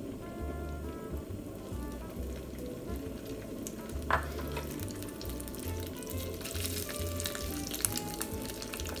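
Pieces of atsuage (thick fried tofu) sizzling in hot oil in a frying pan as they are laid in one by one, with a brief sharp click about four seconds in.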